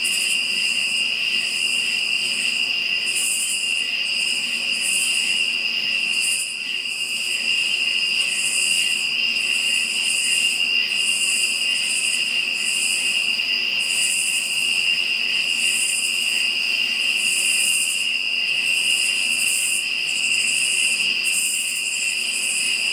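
Night insects calling: a steady high-pitched cricket trill, with a higher chorus above it that swells and fades about once a second.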